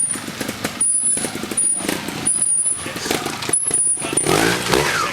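Trials motorcycle engine revving in short bursts, cut by several brief gaps, with its pitch sliding up and down near the end.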